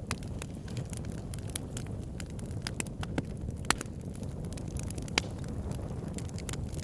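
Wood fire crackling: a steady low rumble of burning with frequent sharp pops and snaps, a few of them louder in the middle and later part.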